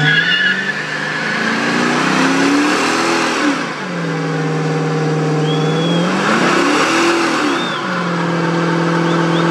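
A Dodge Challenger SRT8 392's 6.4-litre HEMI V8 revving hard during a burnout, the rear tyres spinning and squealing. The revs climb sharply at the start, drop back twice and hold steady in between.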